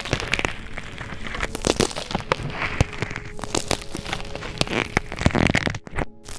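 Slime being squeezed and poked, with dense irregular crackles and pops of trapped air bubbles and soft squelching. A brief break just before the end.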